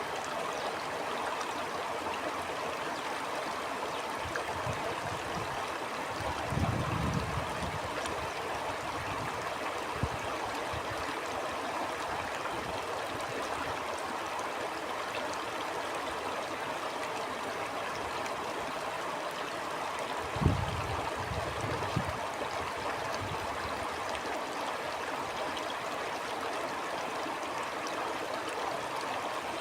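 Stream water flowing and trickling steadily. Brief low rumbles break in twice, about a quarter of the way in and again past the middle.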